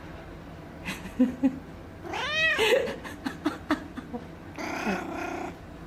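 Domestic cat meowing twice: a meow that rises and falls about two seconds in, then a flatter, longer call near the end. A few sharp clicks come just before the first meow.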